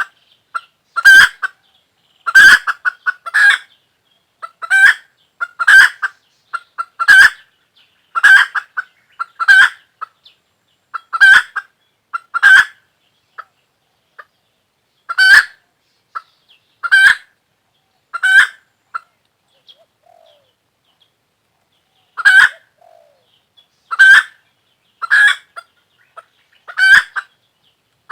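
A chicken calling over and over in short, loud, sharp calls, roughly one a second, with a couple of brief pauses.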